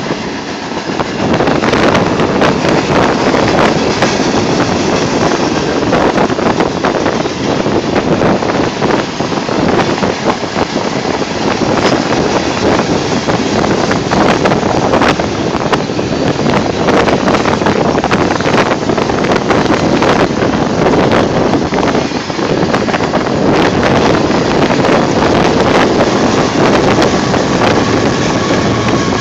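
Freight cars of a long manifest train rolling past: a steady rumble with a constant run of wheel clicks and clatter on the rails, mixed with wind buffeting the microphone.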